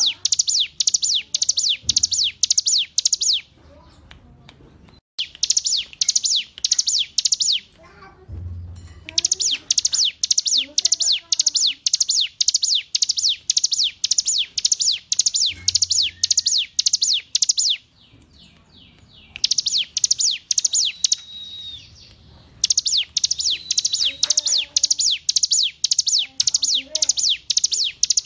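Ciblek gunung, a prinia, singing a fast, loud string of sharp descending high notes, about three to four a second, in long runs broken by a few short pauses.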